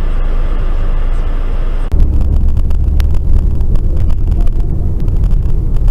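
Road noise of a moving car as picked up by a dash cam: a steady hiss and rumble, switching abruptly about two seconds in to a louder deep rumble with occasional sharp clicks.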